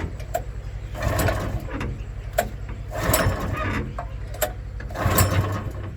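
Small petrol engine of a boat pump running with a rapid, steady firing beat. A sharp click followed by a louder surge repeats about every two seconds.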